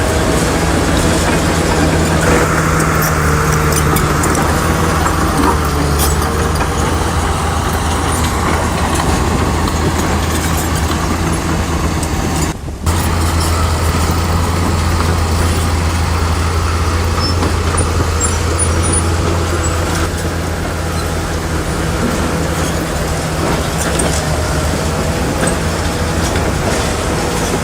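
Heavy bulldozer's diesel engine running steadily under load, with a low drone. The sound cuts out for an instant about halfway through.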